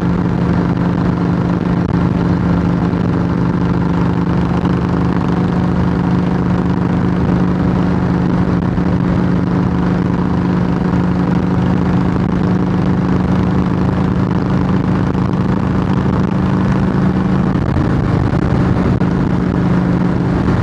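Harley-Davidson Heritage Softail Classic's air-cooled V-twin running steadily through Samson fishtail true-dual exhaust pipes, a loud, even engine note that shifts slightly near the end.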